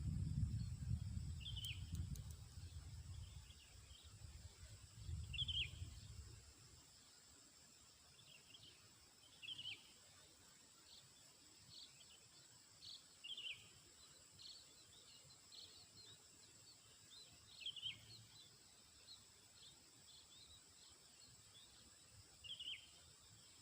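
Short, high, falling bird chirps repeated every couple of seconds over a steady high-pitched insect drone, with a low rumble during the first few seconds that dies away.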